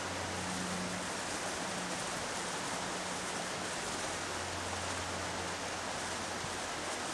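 Steady rushing noise of flowing river water, even and unbroken, with a faint low hum underneath.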